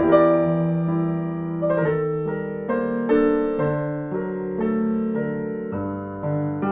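Slow, soft piano music: sustained chords and a gentle melody, the notes changing every second or so.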